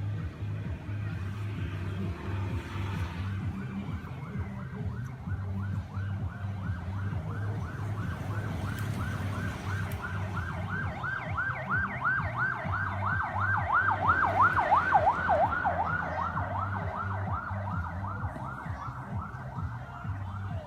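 An emergency vehicle siren in a fast yelp, wailing up and down about four times a second. It grows louder toward the middle and then fades, as if passing. Under it runs a steady low engine or traffic rumble.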